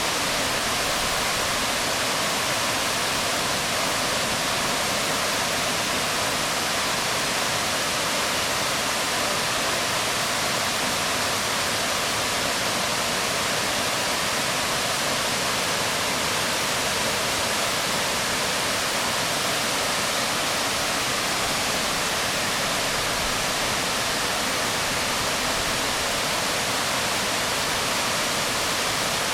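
Waterfall splashing onto rocks: a steady, unbroken rush of falling water.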